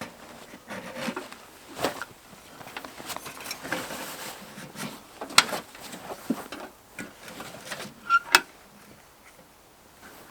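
Irregular rustling with scattered sharp clicks and light knocks, two louder clicks about midway and near the end.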